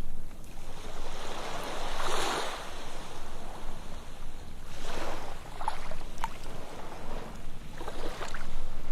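Ocean surf breaking and washing up a beach: three swells of rushing water about three seconds apart, with brief fizzing crackles as the wash runs in.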